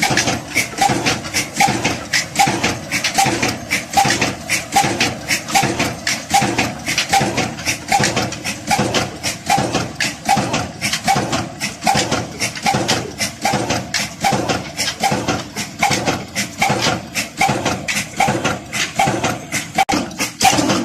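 Old Ruston Hornsby diesel engine running at low speed, a steady, even beat of about two knocks a second.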